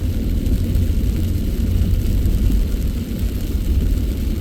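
Steady low road and engine noise of a car driving through rain, heard inside the cabin.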